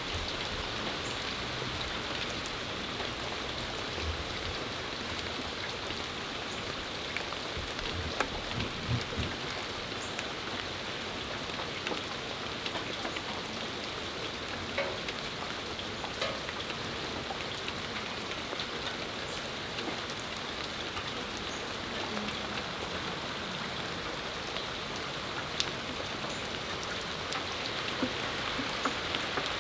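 Steady spring rain falling and pattering on surfaces, with many scattered drop ticks and a few heavier drips.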